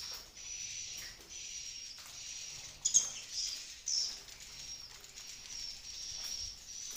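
Swiftlet calls: high twittering chirps repeating about once a second, with two louder calls about three and four seconds in.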